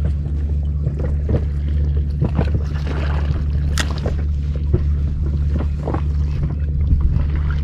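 Small boat's outboard motor running with a steady low hum, with scattered light knocks and clicks over it.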